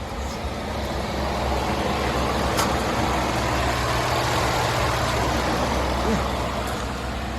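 A 2013 Ford F-150's 5.0-litre V8 gas engine running steadily with a low hum, with a broad rushing noise that swells in the middle and fades near the end.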